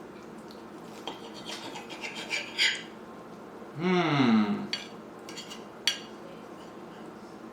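Spoon and knife scraping and clinking against a plate while cutting into food, with a few sharp clicks. About four seconds in, a short voiced hum falls in pitch.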